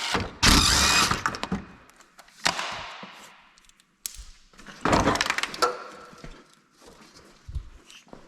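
Several sudden knocks and scraping bursts from plastic parts being worked loose and handled as a headlight assembly is pulled out of a pickup's front end. The loudest come between about half a second and a second and a half in, and again around five seconds in.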